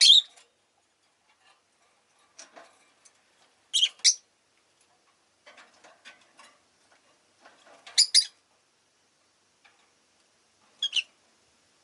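Rosy-faced lovebirds calling: short, loud, high-pitched chirps, mostly in quick pairs, about every three to four seconds, with quieter scratchy chatter in between.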